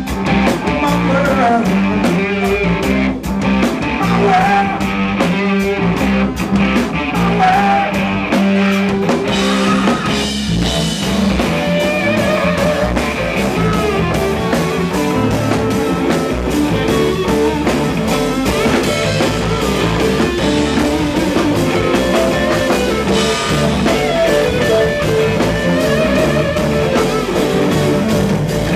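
Rock band playing live: guitar over bass and a drum kit keeping a steady beat.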